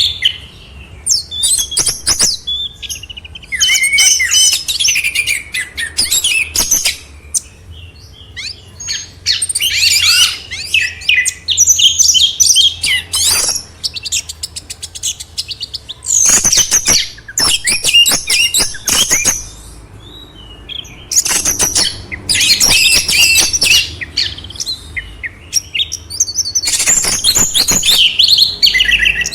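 Caged songbirds singing in bursts of rapid, high, chattering and twittering phrases a few seconds long, with short pauses between them, about seven bursts in all.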